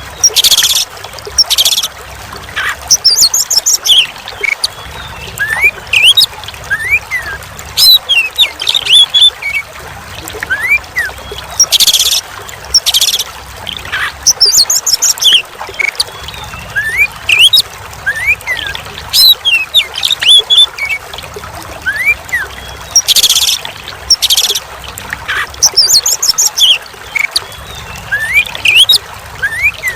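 Oriental magpie-robin (kacer) singing over and over: short rising whistles, quick chirps and high trills, broken by several loud harsh calls, over steady trickling water.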